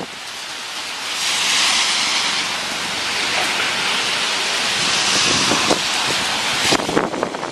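Tropical-storm wind gusting hard, building about a second in and surging twice before easing near the end, with a few short crackles late on.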